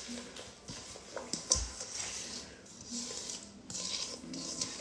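Faint handling knocks and clicks, with one low thump about one and a half seconds in.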